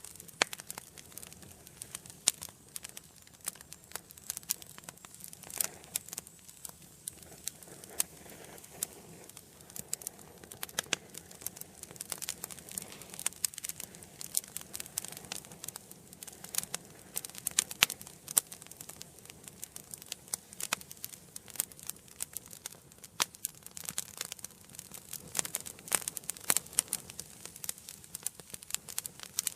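Wood fire burning in an indoor fireplace: a soft steady hiss of flame with frequent irregular sharp crackles and pops from the burning logs.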